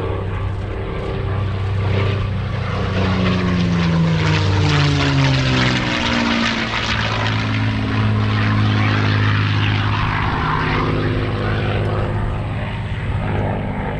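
P-51 Mustang's V12 piston engine and propeller on a low pass. The engine note drops in pitch as the plane goes by a few seconds in, then runs steady as it flies on.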